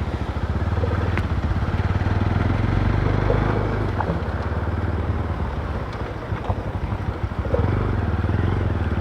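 Motorcycle engine running steadily at low revs while the bike is ridden, with road and wind noise.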